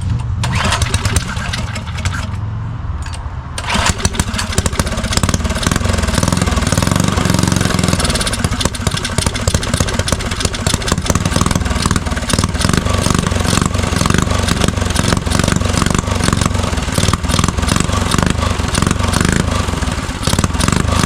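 Motovox mini bike's small single-cylinder four-stroke engine, fitted with a performance cam, running just after being started: lower at first, then throttled up about four seconds in and kept at a loud, fast run. It now stays running, the old gas having been cleared from the carburetor.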